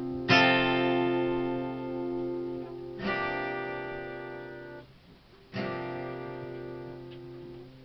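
Acoustic guitar playing slow chords, three strummed chords each left to ring out and fade, the last after a brief pause.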